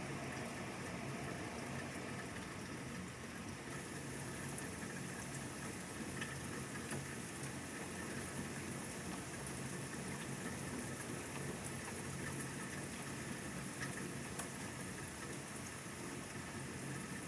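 Steady rain falling during a thunderstorm: an even hiss with a few scattered drop ticks.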